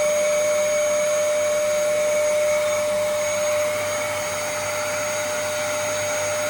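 Vacuum cleaner running steadily, its motor giving a constant whine over a rushing hiss, a little quieter from about four seconds in.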